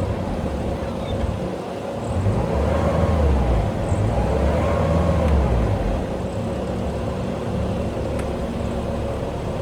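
Bobcat T740 skid steer's diesel engine running. It works harder for a few seconds about two seconds in, then settles back to a steady run.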